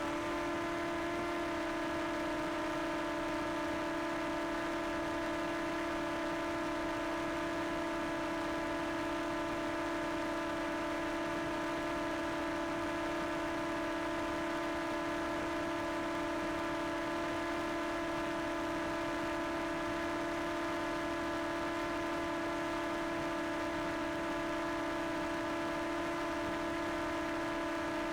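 Quadcopter drone hovering, its propellers giving a steady whine that holds one pitch throughout.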